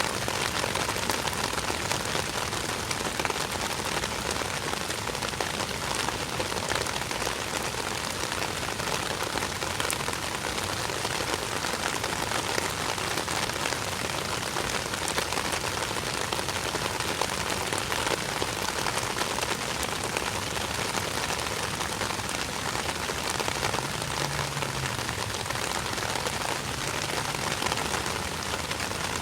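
Steady rain falling and pattering on surfaces, an even hiss thick with small drop ticks. A faint low hum comes in briefly near the end.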